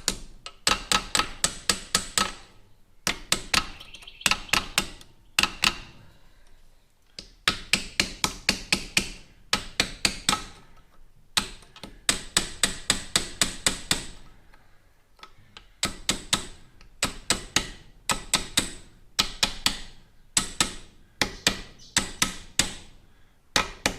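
Hammer tapping a new fork seal into a motorcycle fork leg: quick runs of sharp taps, about five a second, broken by short pauses, seating the seal evenly in its bore.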